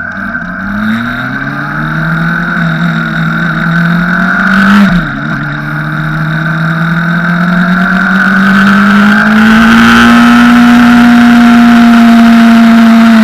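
Honda CBR600RR inline-four engine heard from on board, pulling hard with rising revs, dropping sharply in pitch at a gear change about five seconds in, then climbing again and holding steady high revs near the end. Very loud, with rushing air noise growing as speed builds.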